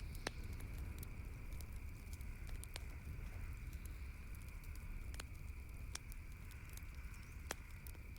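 Campfire crackling, with irregular sharp pops and snaps of burning wood over a steady low rumble of the flames.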